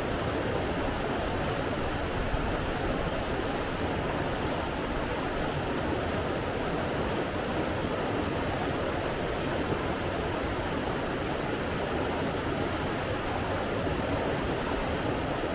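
Flowing water rushing with a steady, even noise that does not rise and fall in swells.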